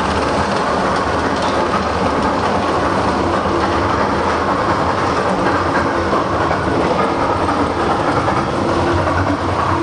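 Mine-train roller coaster cars running along the track, a steady, loud rumble of wheels on rail that holds even throughout.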